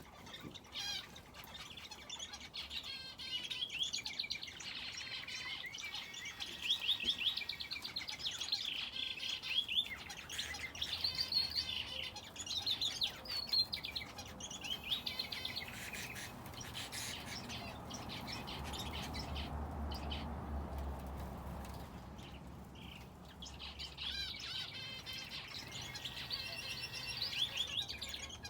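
Aviary finches and a canary chirping and trilling, many quick overlapping calls. About halfway through the chirping thins out while a low rumble rises and fades, then the chirping picks up again near the end.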